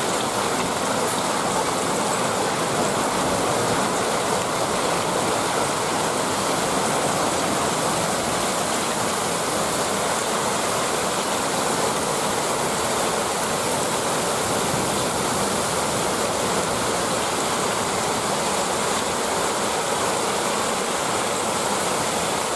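Torrential rain pouring down in a heavy thunderstorm downpour: a steady, seriously loud rushing that does not let up.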